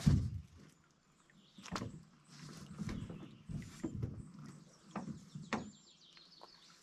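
A few dull knocks and thumps: a sharp one at the start, others near two seconds in and just past five seconds, with softer uneven shuffling and thudding between them.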